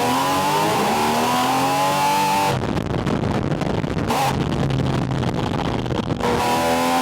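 Porsche 718 Spyder RS's naturally aspirated flat-six engine pulling under acceleration, heard through a microphone on its air intake: the pitch climbs, breaks off suddenly about two and a half seconds in into a rougher, lower sound, and climbs again near the end.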